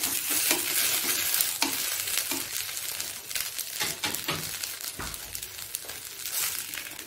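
Oil sizzling under rice-flake vegetable pancakes frying on a nonstick tawa, with a spatula scraping and tapping against the pan as it slides under a pancake to lift it. A soft thump comes about five seconds in.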